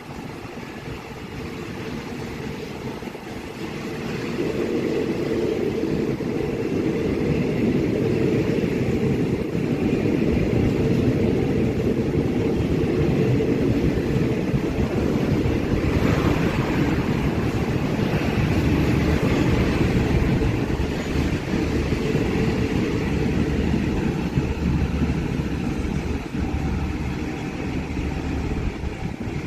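Diesel-hauled passenger train running past below a station footbridge: a rumble of engine and wheels that builds about four seconds in, holds steady, and eases off near the end.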